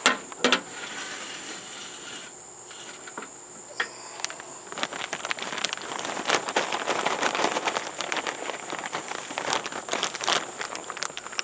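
Two sharp knocks, then, from about five seconds in, a dense run of light crackling and pattering as dry, unsoaked cherry wood chips are tipped from the bag into the smoker's pan. Under it runs a steady high insect drone.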